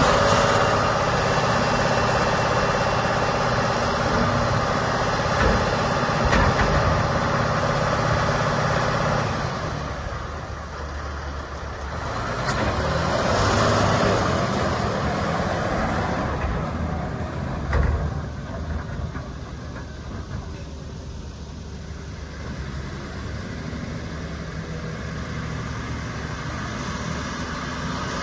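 Volvo A40G articulated dump truck's six-cylinder diesel engine running: louder at first, easing down, swelling again, then settling lower, with a brief knock about two-thirds of the way through.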